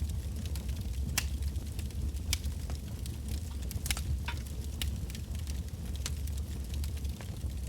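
Wood bonfire burning, with irregular sharp crackles and pops from the burning logs over a steady low rumble.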